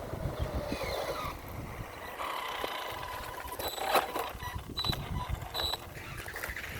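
RC car with electric motors and an electric ducted fan running, a high motor whine coming and going, with a sharp knock about four seconds in.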